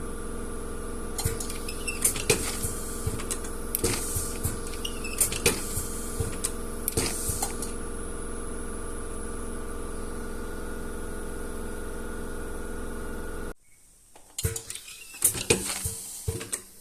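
A steady machine hum with irregular light clinks and clicks of small hard objects being handled. The hum cuts off suddenly near the end, leaving only the clicks.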